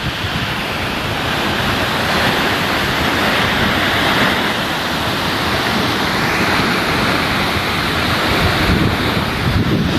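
Wind-driven waves on a dam reservoir splashing steadily, with strong wind buffeting the microphone.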